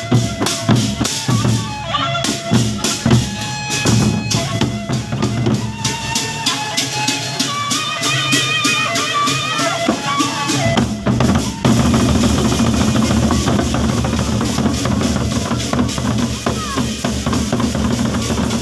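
Gendang beleq ensemble playing: large Lombok barrel drums beating a fast interlocking rhythm under cymbal clashes, with a wind-instrument melody over it. About eleven seconds in the melody drops away and the drumming and cymbals become denser and louder.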